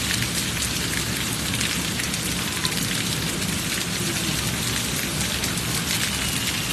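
Heavy rain falling steadily: a dense, even hiss full of individual drop splats, with no let-up.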